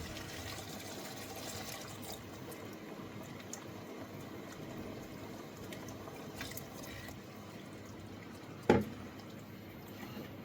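Thickened stock simmering in a wok: a steady watery hiss that thins a little after about two seconds, with one sharp knock near the end.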